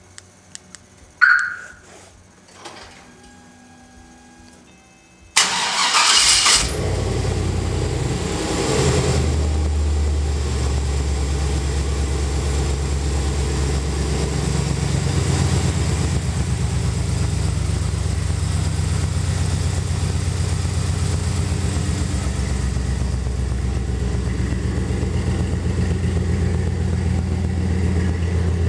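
2003 Chevy 2500HD's 6.0-litre gas V8 cold-started after two months sitting, at 37 degrees. After a few faint clicks and a short chirp, it fires suddenly about five seconds in. Its revs flare for about a second, then it settles into a steady idle.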